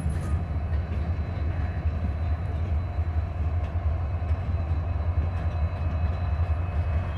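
Freight train moving slowly past: covered hopper cars rolling by, then Norfolk Southern diesel locomotives, over a steady low diesel engine drone.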